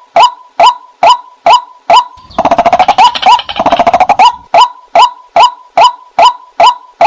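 White-breasted waterhen calling, as used for a hunting lure: a loud note repeated about twice a second, broken about two seconds in by a rapid chattering run of quick notes that lasts about two seconds, after which the regular notes resume.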